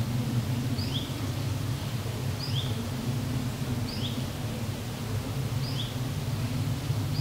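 A bird repeating a short two-note call about every second and a half, a high note followed by a slightly lower one, over a steady low rumble.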